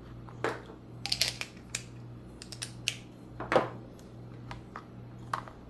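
Hands handling small screws, tools and plastic parts of an RC car: scattered light clicks and taps, with two brief louder rustles about half a second in and about three and a half seconds in.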